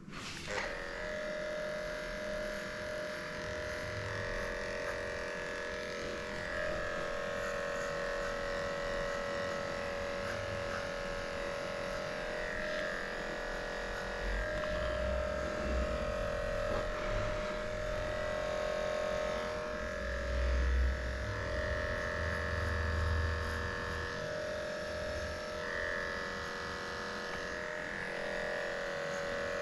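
Electric dog grooming clippers running steadily, shaving a matted coat. The motor's hum dips and shifts slightly in pitch as the blade works through the hair, with a few low thuds partway through.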